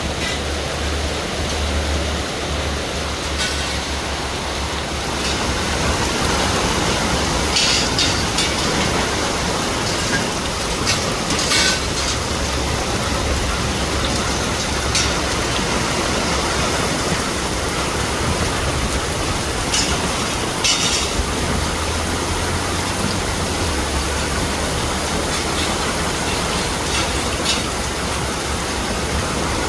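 Heavy rainstorm: rain pouring steadily, with wind buffeting the microphone in a low rumble and a few sharp taps.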